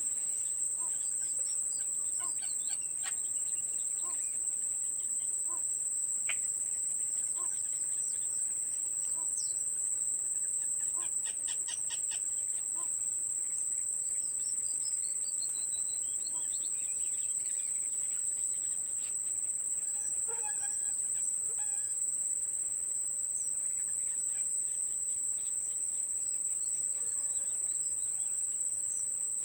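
Steady high-pitched drone of insects, with scattered bird chirps and short calls over it.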